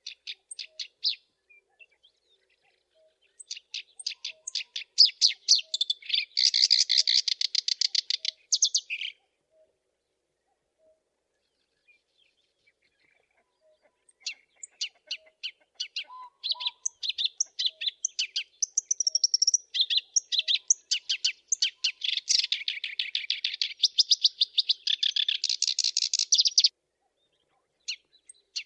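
Black-browed reed warbler singing: long runs of fast, chattering notes, one of about six seconds and then a longer one of about twelve seconds after a pause.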